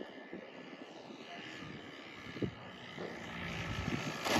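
Radio-controlled model plane's electric motor and propeller whining in flight, growing louder toward the end as the plane comes closer. There is a short thump about halfway through.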